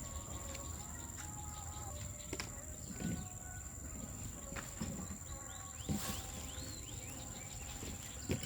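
Birds chirping, with a quick run of short rising chirps about two-thirds of the way in, over a steady high-pitched whine and scattered clicks.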